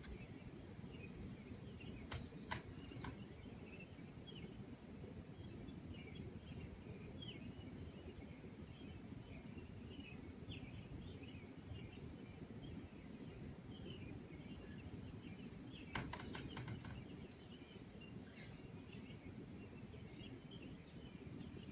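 Faint steady background rumble with small birds chirping irregularly in the distance. A few sharp clicks come about two to three seconds in, and a quick cluster of them comes past the middle.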